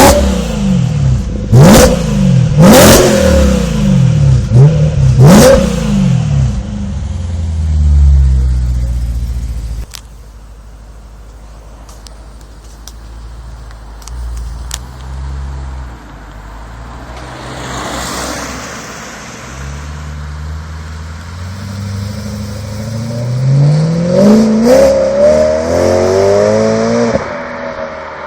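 BMW M3 E92's V8 through an Akrapovic exhaust, revved sharply several times in the first few seconds with sharp cracks on the revs. It then drops to a quieter, lower running sound and near the end climbs in pitch as it accelerates.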